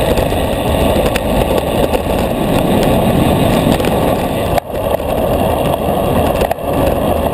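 Wind noise on a bike-mounted camera's microphone while riding a road bicycle at race speed, a steady loud roar with road noise under it. It dips briefly twice in the second half.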